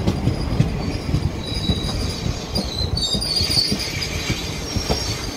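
Train coaches rolling past at close range: a heavy rumble with wheels knocking over rail joints, and a high metallic wheel squeal that rises about halfway through.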